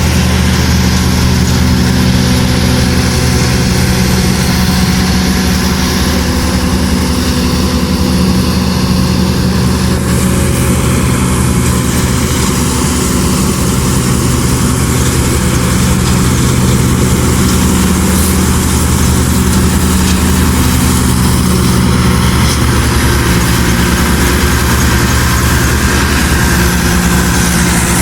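Tractor engine running steadily at a constant speed, with a loud, even, low-pitched drone.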